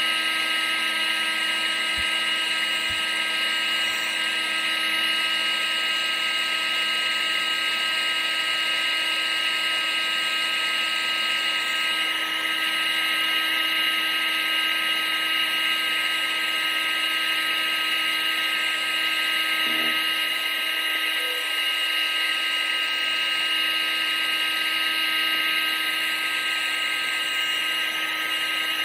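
Vacuum cleaner running steadily: a constant high-pitched motor whine over a rush of air, with no change in speed.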